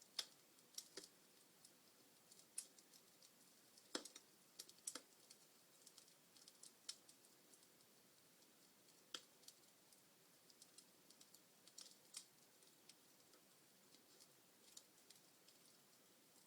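Wood fire in a fireplace crackling: irregular sharp pops and snaps over a faint low hiss, the loudest near the start and about four seconds in.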